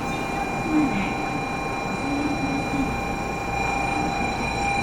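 Shinkansen train at the platform giving off a steady high-pitched electrical whine of several tones, which switches on abruptly and holds over constant platform noise and the faint murmur of waiting passengers.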